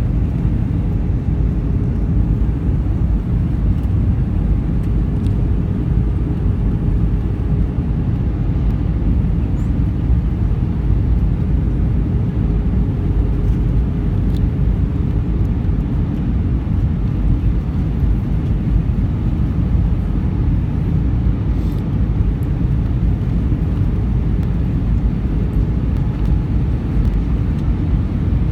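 Steady cabin noise of an Airbus A320 in flight: a constant low rumble of engines and airflow, with a faint steady hum.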